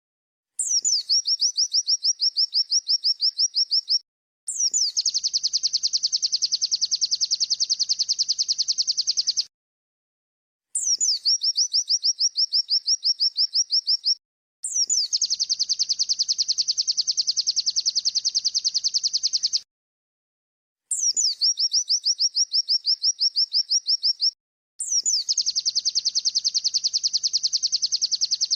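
Looped bird-song training recording of 'wit-wit' chirps joined to a ciblek (prinia) trill. A run of quick high chirps that starts with a falling note gives way to a longer fast buzzy trill, and the whole phrase repeats three times with about a second's pause between.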